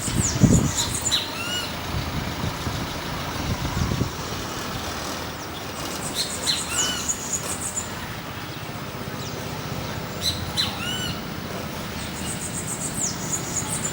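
Birds calling outdoors: one bird repeats a short phrase of arching, falling whistled notes about every four to five seconds, with high buzzy trills near the start and end. A low rumble comes in the first second.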